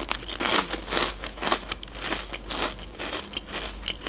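Close-miked chewing of crunchy potato chips, a quick run of crisp crunches, about two to three a second.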